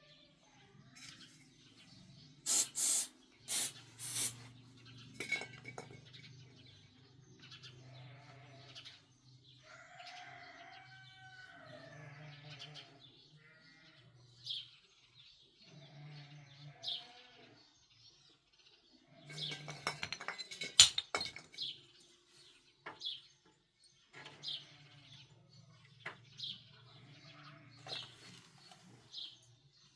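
Small birds chirping repeatedly over a low steady hum, with a few loud sharp clatters about three seconds in and a burst of clattering about twenty seconds in.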